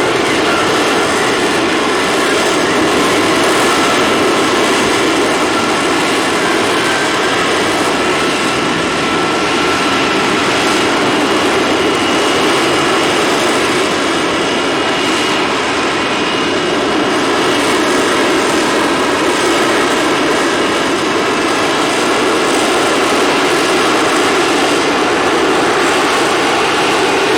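Aircraft engines running steadily, a continuous loud noise with faint tones that drift slightly in pitch.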